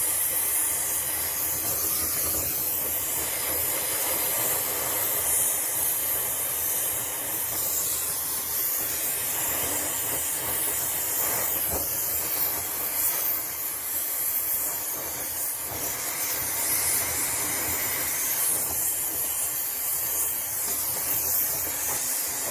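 Oxy-fuel gas torch flame hissing steadily while brazing a copper hot-water pipe tee fitting to seal a leaking joint.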